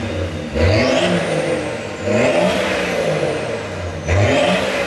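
Tuned BMW 535d twin-turbo straight-six diesel being revved three times while stationary. Each rev carries a high turbo whistle that climbs with the revs and falls away slowly.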